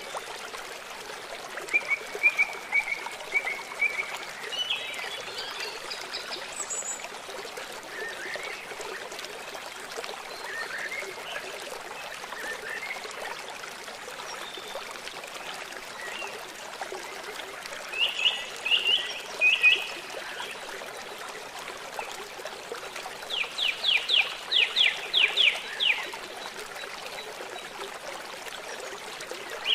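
Wild birds singing and calling over the steady rush of flowing water. There is a run of short notes a couple of seconds in, bursts of chirps about two-thirds through, and a quick rattling series of about ten notes near the end.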